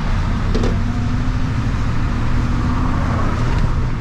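Steady engine and road noise heard from inside a vehicle cruising at highway speed.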